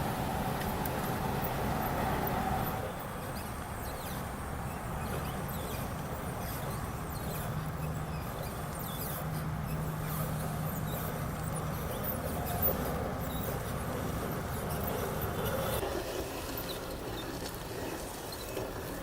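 RC scale crawler running off-road: its electric motor and gearbox whine, changing pitch with the throttle and louder in the first three seconds. Its tyres crackle and skitter over the forest ground.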